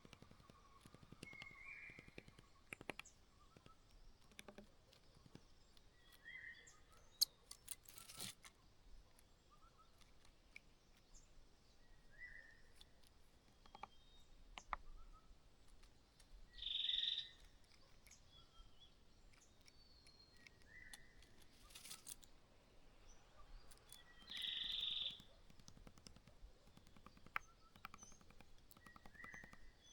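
Small birds giving short, faint chirps every couple of seconds, with two louder, higher calls of about a second each, one about halfway through and one near the end, among scattered faint clicks and scratches.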